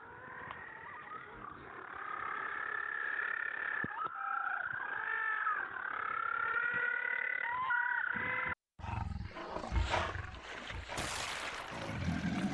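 Several wild animals calling at once: long, wavering calls that overlap one another. About eight and a half seconds in, there is a brief dropout and an abrupt cut to a different, noisier recording.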